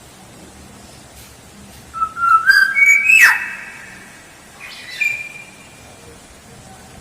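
Black-naped oriole singing: a loud fluty whistled phrase about two seconds in, stepping up in pitch and ending in a sharp downward-sliding note, then a shorter whistle about five seconds in.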